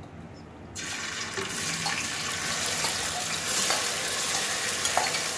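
Hot oil in a cooking pot sizzling as the chicken mince masala mixture is tipped in. The frying starts suddenly about a second in and runs as a steady hiss, with a few light clicks.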